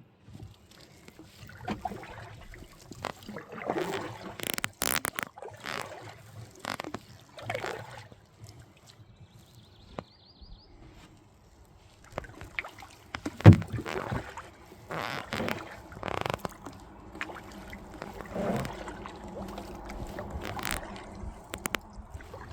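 Kayak paddle splashing and dripping in river water in irregular strokes, with one sharp knock a little past halfway.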